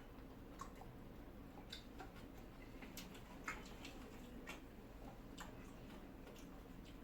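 Faint, irregular light clicks and taps of people eating, cutlery against plates, over a low steady background hum.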